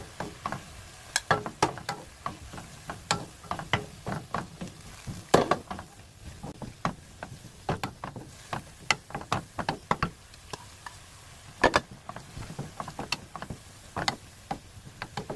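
A cooking utensil clicking and knocking against a pan as vegetables are stirred, with irregular clacks a few times a second.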